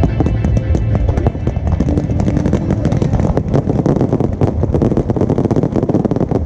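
Fireworks display going off in a dense, rapid barrage of crackling pops and bangs.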